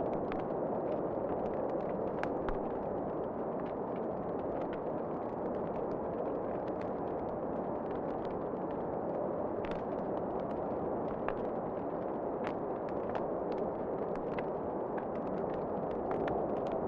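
Wood fire crackling in a fireplace, with irregular sharp pops and snaps over a steady, low rushing wind.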